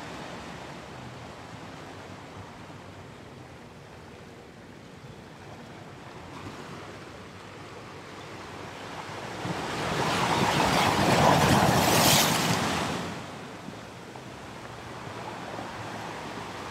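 Ocean surf: a steady wash of waves, with one wave swelling loudest a little past halfway and then fading away.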